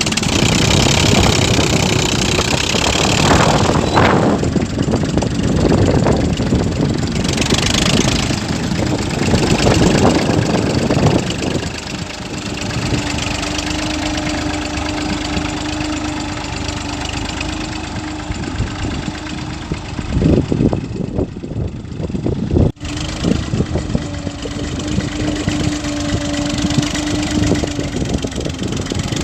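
Massey Ferguson tractor's diesel engine running, louder and rougher for the first ten seconds or so, then settling into a steadier, quieter run with a faint steady hum. The sound breaks off for an instant about two-thirds of the way through.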